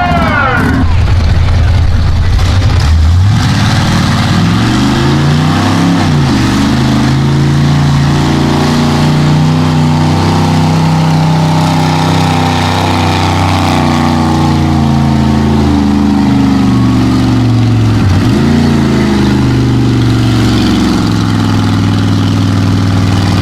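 Mega truck engine running hard under load in a sled pull. Its pitch climbs over the first few seconds, then holds high, dipping briefly twice.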